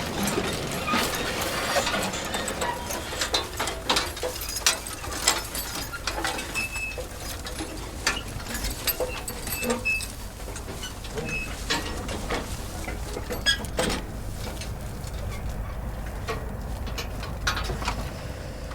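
Manure spreader running: irregular clanks and rattles over a steady low rumble, with a few short high squeaks, busier in the first half.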